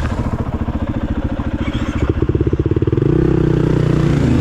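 Single-cylinder four-stroke engine of a KTM 500 EXC-F dirt bike running on the trail, with a quick stream of firing pulses; about three seconds in it opens up and gets louder as the bike accelerates.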